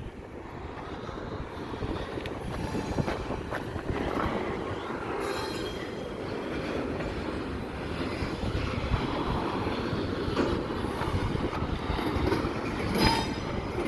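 Freight train of intermodal double-stack cars rolling slowly on the rails: a steady rumble of wheels and cars, with brief high wheel squeals a few times.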